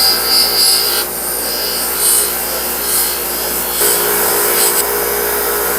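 A power tool running steadily, with irregular scraping and rasping each time the wooden screwdriver handle is pressed against it and worked mechanically.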